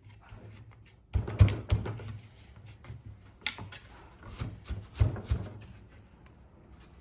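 Irregular knocks and thuds from things being handled and set down, the loudest about a second and a half in and again around five seconds in.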